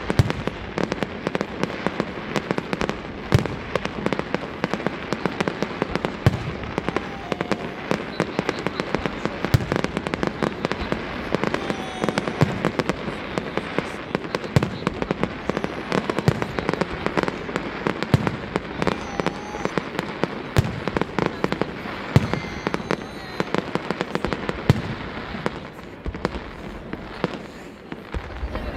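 Aerial fireworks display: a dense, continuous run of bangs and crackling, thinning out and getting quieter near the end.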